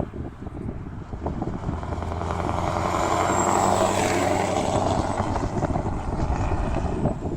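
Scania R500 V8 diesel truck with open exhaust pipes running past, its deep engine drone swelling to a peak about three to four seconds in and staying loud.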